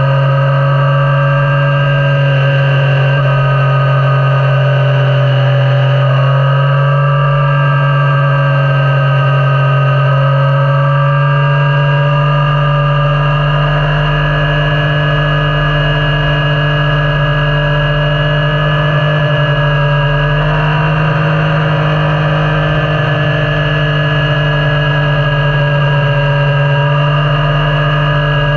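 Yamaha Niken's three-cylinder engine running steadily under way, its pitch drifting gently up and down, with small shifts about 6 and 20 seconds in.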